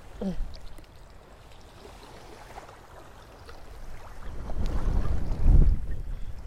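Wind buffeting a phone's microphone: a low, gusty rumble that swells in a strong gust from about four seconds in.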